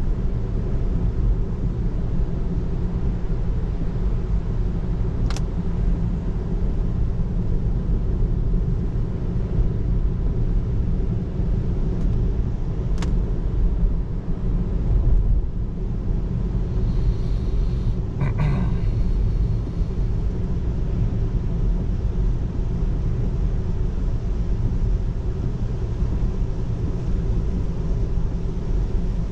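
Steady low road and tyre rumble inside the cabin of a moving 2024 Tesla Model 3, an electric car with no engine note, with a few faint ticks.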